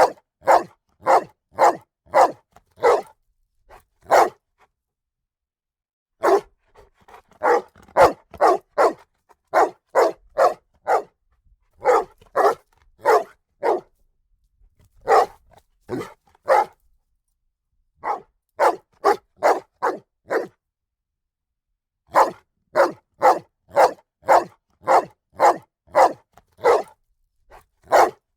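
A dog barking in runs of several quick barks, about two a second, with pauses of one to two seconds between runs.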